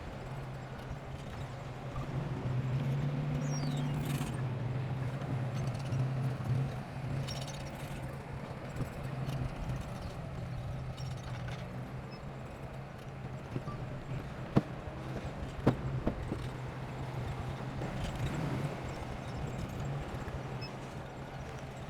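Diesel engine of heavy construction equipment running steadily with a low hum, with a few sharp metal knocks and clanks, the two loudest a little after halfway.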